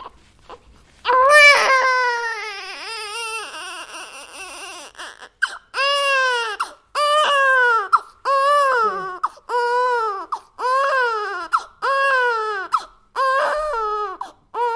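Infant crying: one long wail about a second in, then a run of short, rhythmic cries, each rising and falling in pitch, about one a second.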